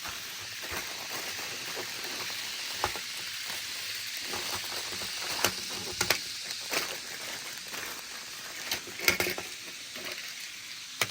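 Packaging being handled and opened: a steady crinkling rustle with a few sharper crackles and taps as the toy locomotive is unwrapped.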